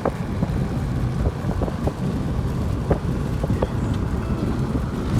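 A car on the move: a steady low rumble of engine and road noise, with a few brief ticks scattered through it.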